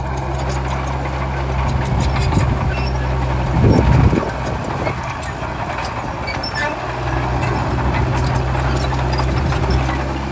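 Diesel engine of a D30H crawler bulldozer running steadily under load, with many short metallic clicks and clanks, and a brief loud surge of the engine just under four seconds in.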